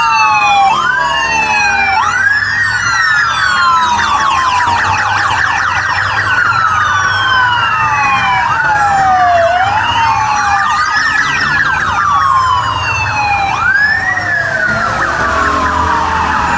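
Police sirens wailing, several rising and falling tones overlapping with a faster warble. The sound starts and stops abruptly.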